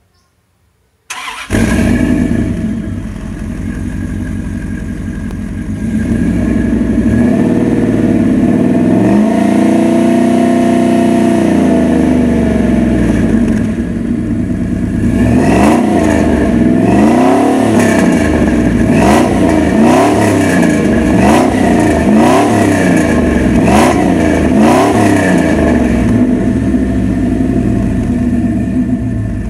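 2001 Dodge Dakota's 5.2-litre V8 through a decatted, free-flowing Flowmaster single exhaust, idling, then revved once long and held, back to idle, then blipped in a quick run of about eight short revs before settling back to idle.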